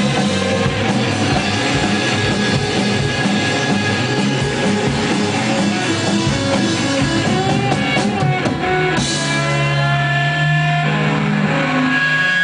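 Live rock band playing with electric guitar and drum kit. About nine seconds in the drumming gives way to held, ringing guitar notes.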